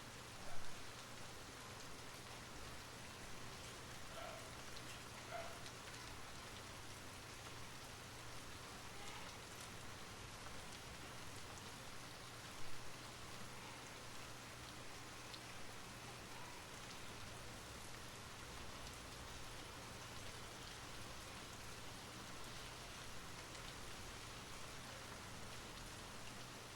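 Steady rain falling, an even patter of drops. Two brief, much louder sounds stand out, one just after the start and one about halfway through.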